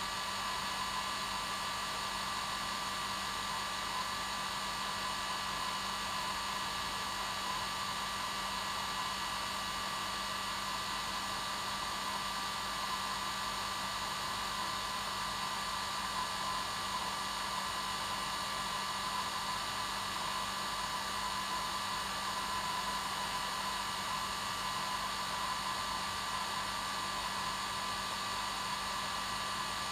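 Hair dryer running steadily: an even whoosh of air with a constant motor whine, no change in speed.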